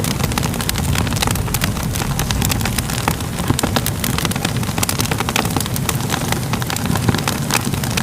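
Fire crackling: a thick stream of sharp pops and snaps over a steady low roar.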